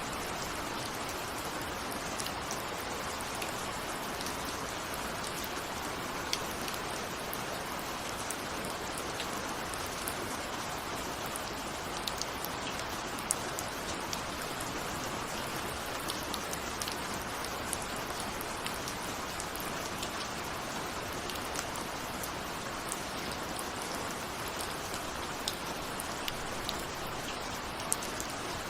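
Steady rain, a constant hiss with scattered sharp ticks of individual drops striking a surface.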